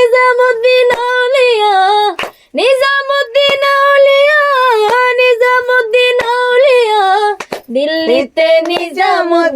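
High voice singing a Bengali devotional song about Nizamuddin Auliya in long held, wavering notes, breaking off briefly about two seconds in. A lower voice takes over near the end.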